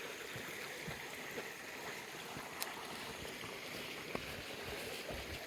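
Small stream running, a steady rush of water with a few faint clicks over it.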